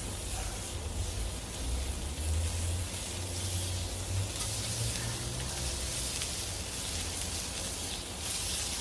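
Pork belly and pork neck sizzling on a hot cast-iron cauldron lid over a campfire, a steady frying hiss, with a steady low rumble underneath.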